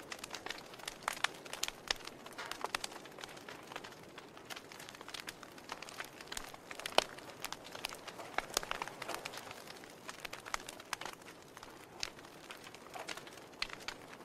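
Wood fire crackling: irregular sharp pops and snaps, many a second, over a soft steady hiss of burning logs.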